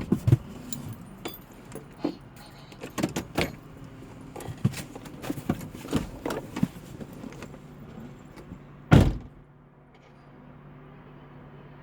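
Scattered clattering rattles and knocks, then one loud thump about nine seconds in, followed by a steady low engine hum of a nearby delivery truck.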